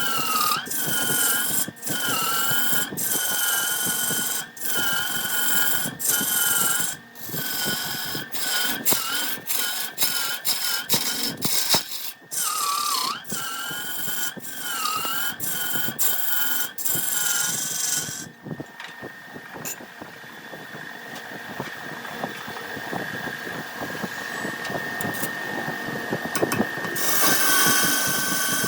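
Wood lathe running with a steady high motor whine while a turning tool cuts the spinning wood in short repeated passes, the whine dipping briefly in pitch now and then as the tool bites. For several seconds in the second half the cutting stops and only the quieter whine of the lathe goes on, then cutting starts again near the end.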